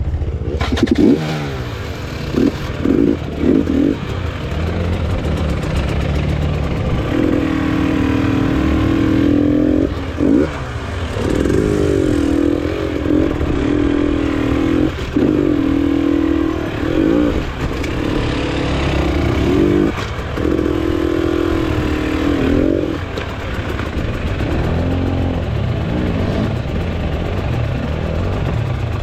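Enduro motorcycle engine revving up and down over and over as the bike picks its way over rocks, with occasional knocks and clatter.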